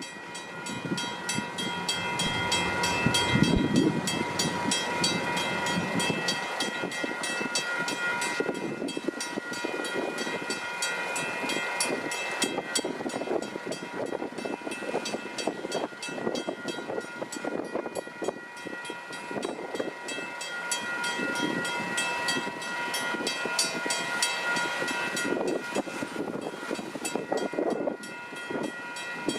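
Railroad crossing bells, a WCH electronic bell and a WCH mechanical bell, ringing rapidly and steadily. An MBTA commuter train, cab car leading and a GP40MC diesel pushing, rumbles and clatters over the crossing.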